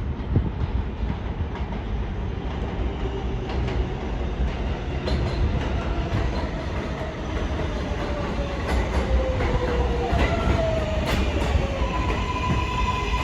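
R188 subway train rumbling into the station, wheels clacking over rail joints, its motor whine falling slowly in pitch as it brakes. A steady tone comes in near the end.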